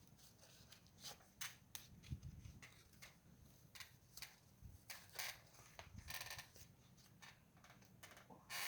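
Faint wood fire crackling, with irregular small pops and snaps and a louder crackle near the end.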